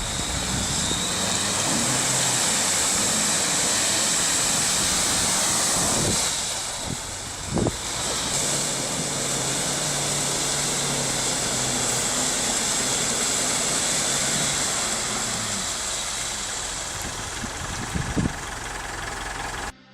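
Off-road truck engine running steadily under load amid a dense, hissing wash of noise, with a short drop-out near the end.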